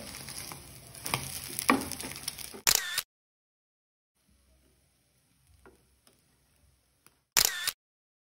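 Egg and paratha sizzling in a nonstick frying pan, with a few sharp spatula clicks against the pan in the first three seconds. A short camera-shutter sound effect cuts in at about three seconds and again near the end, with only a faint sizzle between them.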